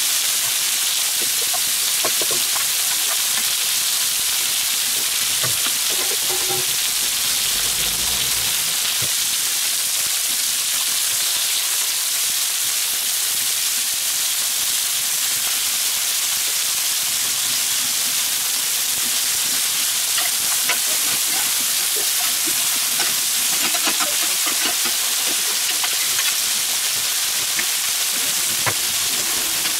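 Chicken skewers and sliced vegetables sizzling steadily in oil on a hot steel fire plate, with a few light clicks and knocks here and there.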